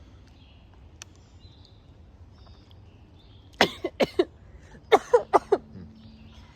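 A person coughing in two quick fits, three coughs and then four, about a second apart, loud and close.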